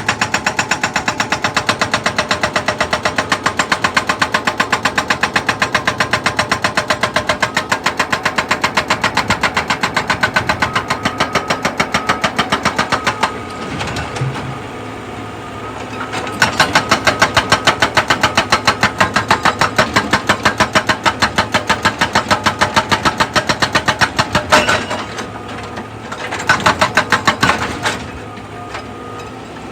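Excavator at work with a rapid, even pounding that stops twice, near the middle and near the end, leaving only the lower drone of the engine before it starts again.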